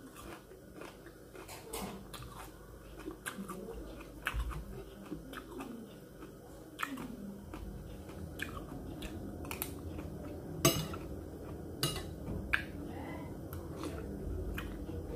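A person chewing cooked leafy vegetables and rice close to the microphone: irregular wet mouth clicks and crackles. A sharp click stands out about ten seconds in.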